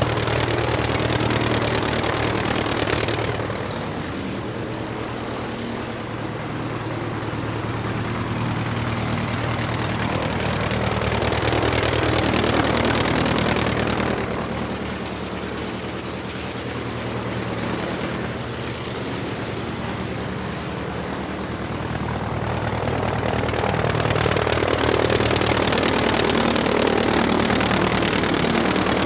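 Propeller aircraft engine running steadily. It swells louder and brighter three times: at the start, around the middle and near the end, with quieter stretches between.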